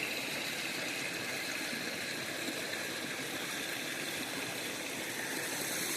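River water running over rocks: a steady rushing and gurgling of a stream.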